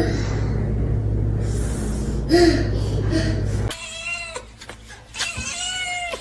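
Domestic cat meowing: two drawn-out meows in the second half, the second running to the end. Before them, a steady low hum with two short calls.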